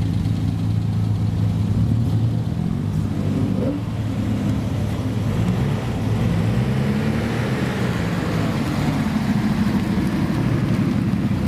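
An old car's engine running loudly through its exhaust. It revs up and down a couple of times over a steady rumble.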